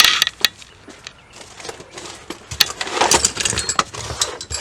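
Clatter of handling in a car repair: short clicks and knocks of tools and parts being moved, with a burst right at the start and a busier run from about three seconds in.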